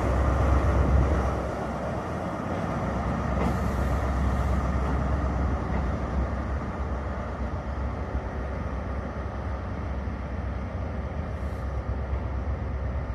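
Class 43 HST power car's diesel engine running with a steady low drone, easing down in level about a second and a half in.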